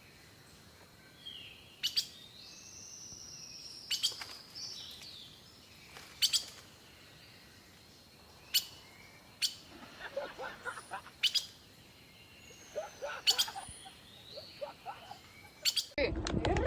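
Outdoor birdsong: a sharp call about every two seconds among higher gliding chirps and twitters. Near the end a much louder sound with a rising pitch cuts in.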